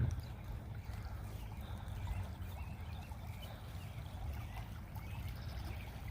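Outdoor ambience by a creek: a low steady rumble with a faint trickle of running water, and a few tiny high chirps near the end.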